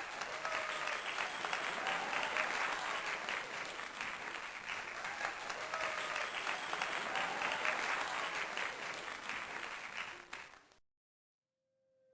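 Crowd applause, a dense patter of clapping that starts and cuts off abruptly after about eleven seconds.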